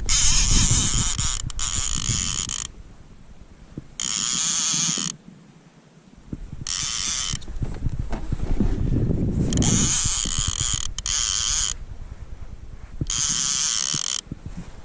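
Fishing reel being cranked in five separate bursts of a second or two each, a whirring, ratchet-like buzz, with pauses between them.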